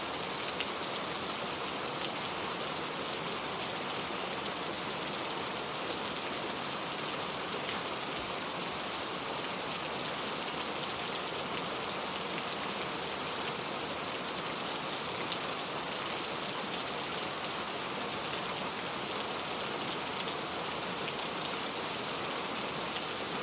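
Steady rain falling, an even hiss with many small drop ticks pattering on a surface.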